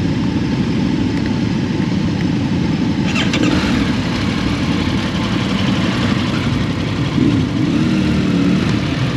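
Motorcycle being ridden on the road: the engine runs under a steady, heavy rush of noise.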